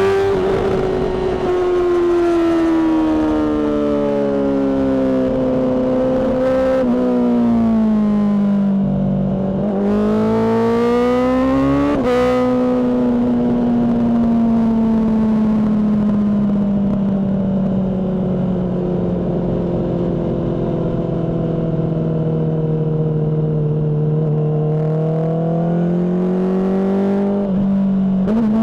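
Honda CBR600RR inline-four engine running through a Mivv aftermarket exhaust while riding: the engine note sinks slowly for long stretches, with quick rises in revs about ten and twelve seconds in.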